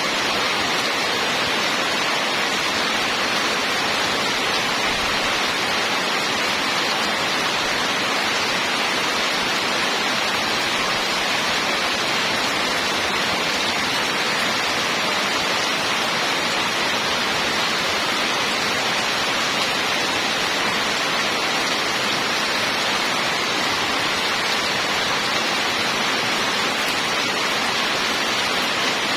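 Rain falling steadily and heavily, an even hiss without distinct drops that stays at one level throughout.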